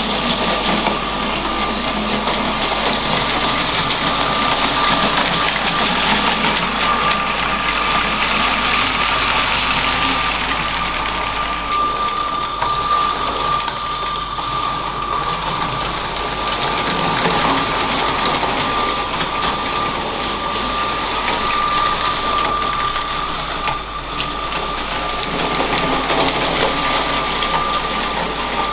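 LEGO train's small electric motor running steadily with a constant high whine, its plastic wheels rattling and clicking over LEGO track.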